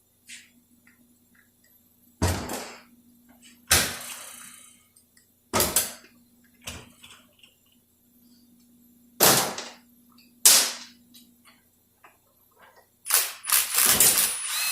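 Pneumatic impact wrench fired in short, sharp bursts, running bolts out of a 46RE automatic transmission case after they were broken loose by hand. About six separate bursts come a second or two apart, then a quick run of bursts near the end.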